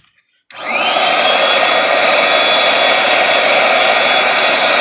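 Electric air mattress pump switched on to blow air through a homemade forge burner: its motor spins up with a short rising whine about half a second in, then runs with a steady, loud rush of air.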